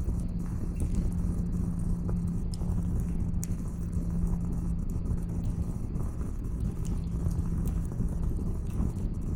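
Wood campfire crackling, with a few sharp pops, over a steady low rumble and a continuous low hum.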